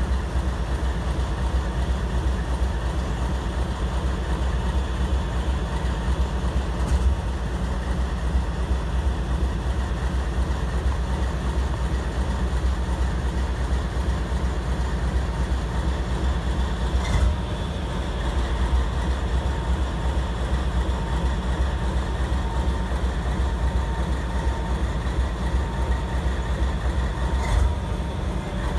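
Freight train cars rolling on yard track: a steady rumble with a faint steady squeal above it. Three sharp knocks come about ten seconds apart.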